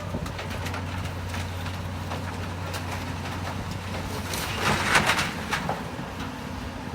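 Heavy demolition machine running steadily, with scattered clanks and knocks, and a louder crash of breaking, falling brick and debris about five seconds in.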